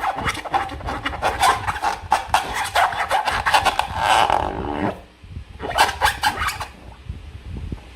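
Slime being squeezed and worked by hand: a rapid run of wet squelching and crackling, a short pause about five seconds in, then a shorter burst.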